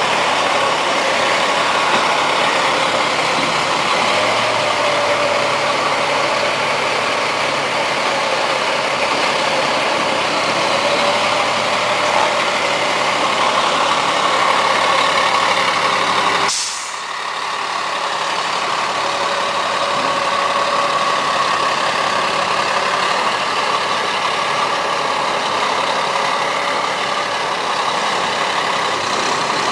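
Truck engine running steadily at low revs. About halfway through, the sound briefly drops away and then comes back.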